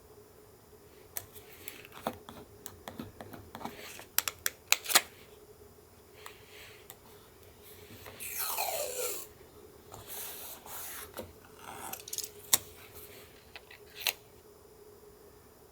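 Paper-craft handling at a work table: scattered light taps and clicks of paper and stationery, with a longer scraping sound lasting about a second near the middle and a few shorter rasps after it.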